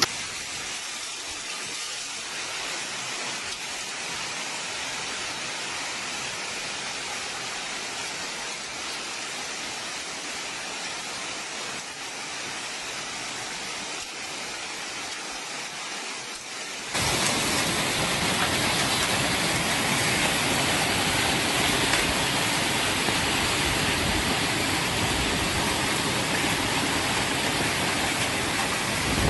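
Steady rushing noise of heavy rain and floodwater. About two-thirds of the way through it cuts abruptly to a louder, fuller rush of water.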